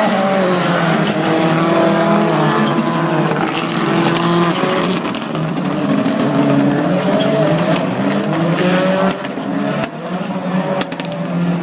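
Several Global Rallycross Supercars racing together, their engines revving up and down through the gears, the pitches rising and falling over one another. The sound eases briefly about nine seconds in.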